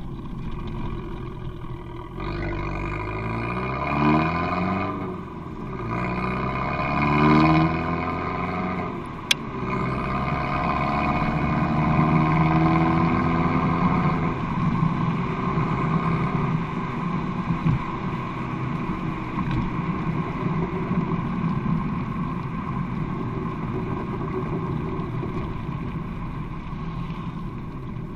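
Abarth 595 Competizione's 1.4-litre turbocharged four-cylinder, through an Akrapovic exhaust, revs up twice, rising in pitch and dropping back each time. A single sharp click comes about nine seconds in, and the engine then settles into a steady drone.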